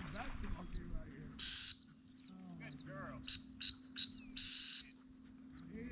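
Dog training whistle blown as commands to a retrieving dog: one long blast, three quick short toots, then another long blast, all at one high pitch. Insects keep up a steady high buzz underneath.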